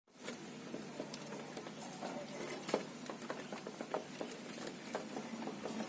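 Irregular light tapping and clicking, a few taps a second, from small parrots pecking and shuffling at their soft food in the cage.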